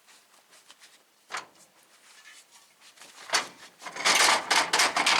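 A few metal knocks, then a loud stretch of scraping and rattling near the end, as loading gear is handled.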